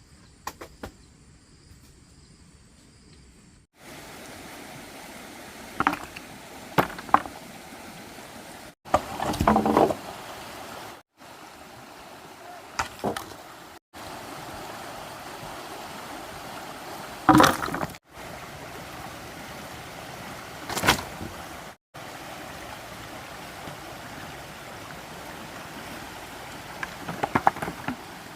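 Steady rush of flowing water with scattered sharp knocks, the loudest a cluster about nine seconds in and single knocks near 17 and 21 seconds. The sound cuts off abruptly several times. The first few seconds are quieter, with faint insect chirring.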